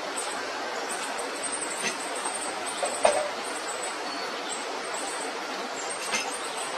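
Baby birds cheeping in rapid, high-pitched chirps over a steady background noise, with a few sharp clicks.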